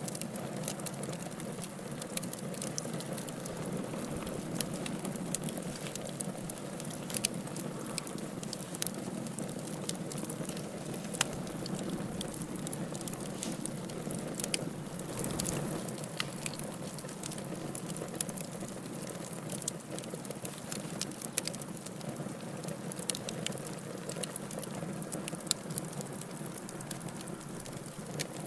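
Wood fire burning in a fireplace: a steady low rush of flames with many small sharp crackles and pops scattered irregularly throughout.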